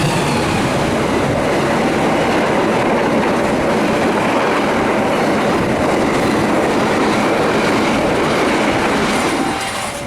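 A train's cars running past at speed: a loud, steady rush of wheels on the rails, dropping away near the end.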